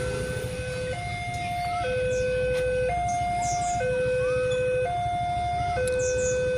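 Railway level-crossing warning alarm of the Westinghouse type sounding: an electronic two-tone signal alternating between a lower and a higher tone about once a second. It runs over a steady low rumble of road vehicles.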